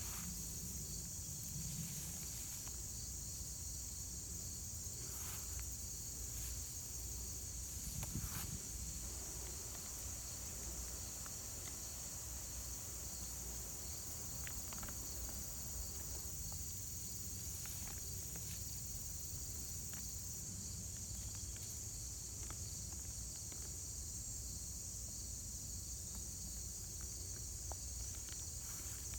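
Steady high-pitched insect chorus, a continuous chirring trill, with faint scattered rustles and clicks of hands digging through loose soil and a low rumble of wind on the microphone.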